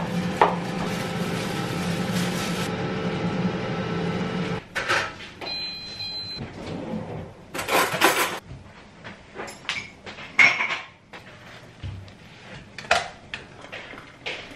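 Kitchen handling sounds: a steady appliance hum cuts off about five seconds in, followed by scattered knocks and clatters of cupboard doors and dishes, with one longer scrape near the middle.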